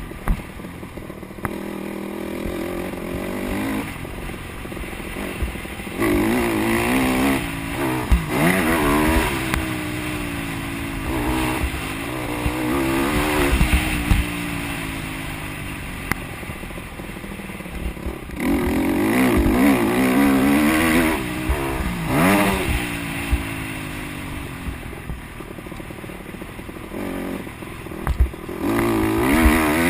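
Honda CRF150R single-cylinder four-stroke motocross bike being ridden hard on the track, the engine revving up and dropping back with each gear change and throttle blip. It swells loud four times as it comes close and fades between.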